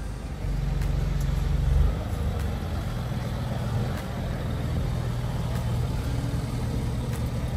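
A car engine running with a steady low hum. It swells from about half a second in, peaks and drops back just before two seconds, then settles to a steady idle.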